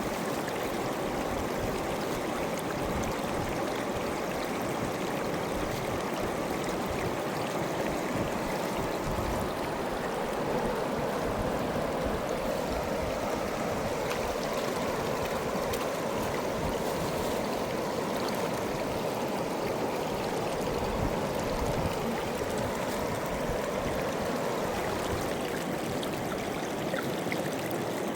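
Mountain river water flowing steadily over rocks, a constant rush of fast water.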